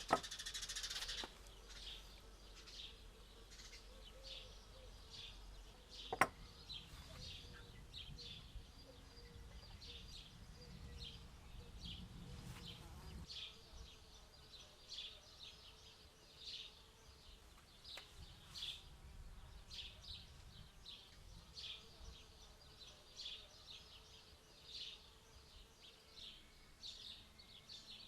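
Faint outdoor birdsong: a small bird chirping short, high notes over and over, with a single sharp click about six seconds in.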